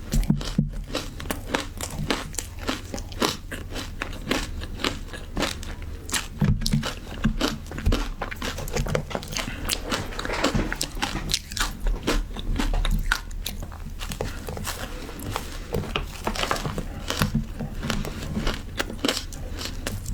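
Close-up crunching and chewing of frozen matcha ice: a steady run of irregular, sharp crackling crunches as the ice is bitten and ground between the teeth.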